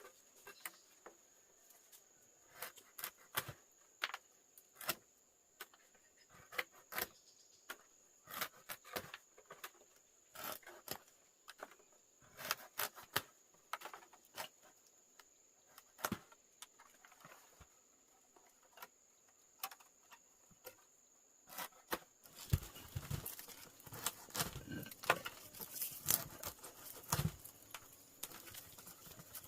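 A small wood and bamboo fire crackling, with irregular sharp pops. The crackling grows denser and fuller about two-thirds of the way through as the fire takes hold.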